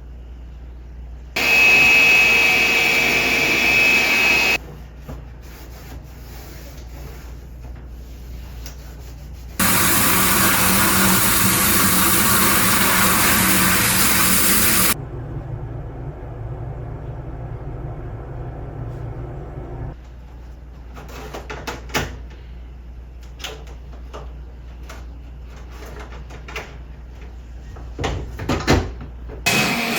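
Vacuum cleaner switched on in two short runs of a few seconds each, the first with a high whine, cleaning dust off an air conditioner filter; afterwards scattered clicks and knocks of the plastic filter and cover being handled.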